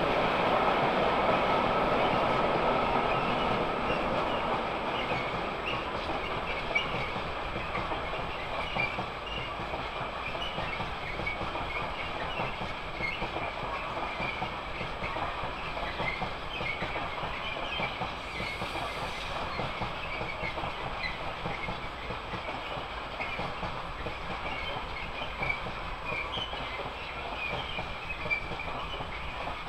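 Freight train of rail tank wagons rolling past, wheels clattering over the rail joints, with many short high squeaks from the wheels. Loudest in the first few seconds, then running steadier and a little quieter.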